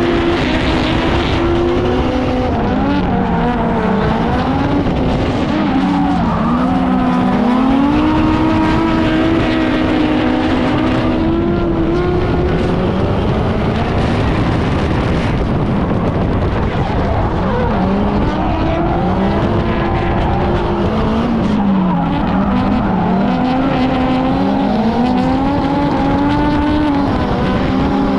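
A drift car's engine running hard at speed, its revs swinging up and down again and again through the corners, over steady tyre and road noise.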